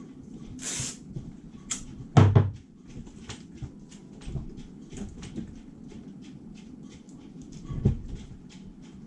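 Hands working with masking tape: a short rasping tear of tape near the start, then a loud knock about two seconds in and another near the end, with small clicks and taps between.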